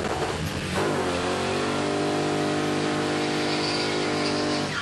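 BMW E30's engine and exhaust heard from inside the cabin while driving under power. The engine note dips briefly about half a second in, then holds a steady, even pitch.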